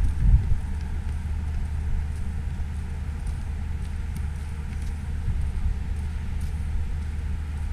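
Low, steady rumble of outdoor city ambience in a snowstorm: wind buffeting the microphone over the hum of road traffic, with a brief louder gust at the start.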